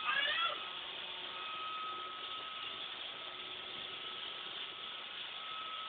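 iRobot Roomba robot vacuum running: a steady whirring hum of its motors with a thin, constant whine.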